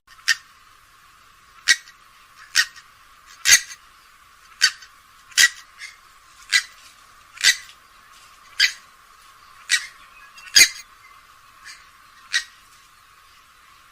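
Grey-headed swamphen giving a series of about a dozen short, sharp call notes, roughly one a second.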